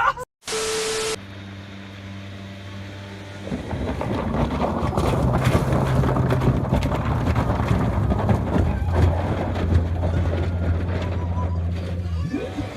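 Motorboat engine running with a steady low hum. A few seconds in, loud rushing water and wind noise joins it.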